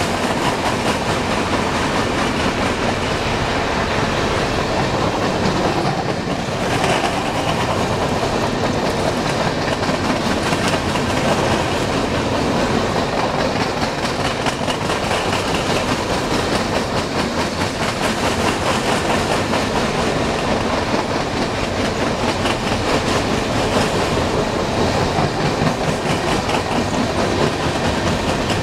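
Coal train's gondola cars rolling past at close range, steel wheels on the rails making a steady rumble with continuous clickety-clack over the rail joints.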